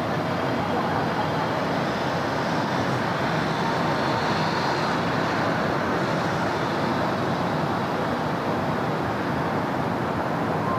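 Steady city road traffic: a continuous wash of passing cars and engines, with a faint whine drifting through the middle.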